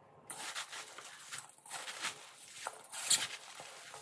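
Hands tossing and squeezing chopped napa cabbage in a stainless steel bowl: irregular leafy rustling and crinkling with light knocks.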